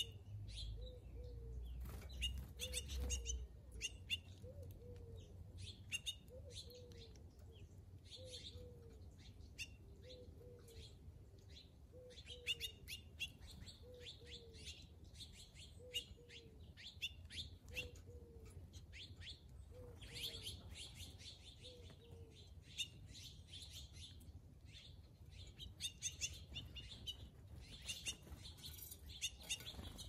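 Small feeder birds chirping and twittering, many short high calls overlapping. Through the first two-thirds a low, hooked note repeats about every second and a quarter.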